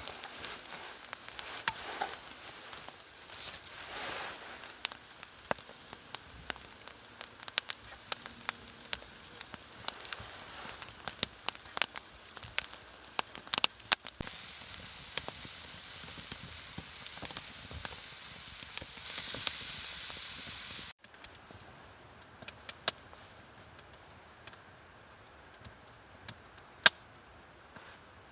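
Wood fire crackling with frequent sharp pops over a steady hiss. It cuts off abruptly about three quarters of the way through, leaving a quieter background with only an occasional pop.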